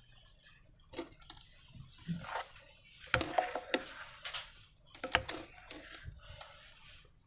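Slime being squeezed and stretched by hand: irregular sticky clicks, crackles and short squelches, busiest in the middle.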